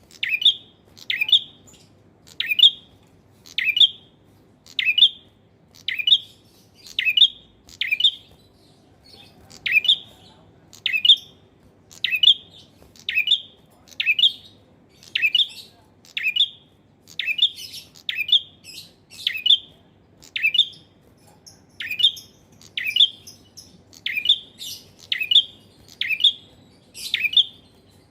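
Male prinia (prenjak) calling persistently: short, sharp chirps repeated about once a second, now and then in quick pairs.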